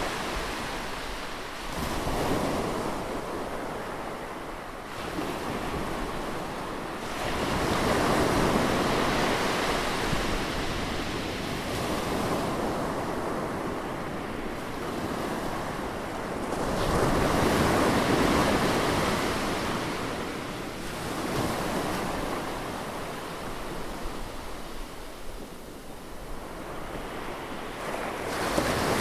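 Close-up sea waves washing onto a shore, surging and receding in slow swells every few seconds.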